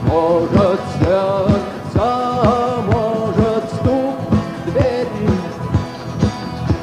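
Rock band playing live, drums keeping a steady beat under a melody line.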